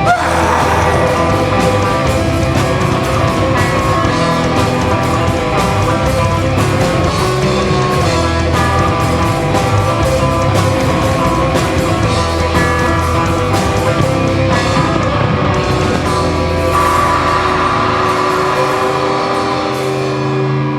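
Live rock band playing an instrumental passage: electric guitars and drum kit, with no singing. Near the end the drums drop out and held guitar chords ring on.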